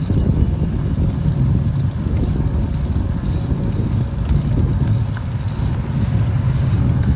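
Wind buffeting the camera's microphone while cycling, a steady low rumble.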